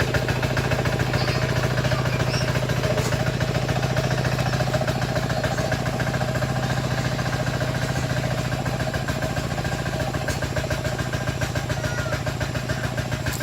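Engine of a 173DJ plow machine running steadily at idle with a fast, even pulse, then cutting off suddenly at the very end.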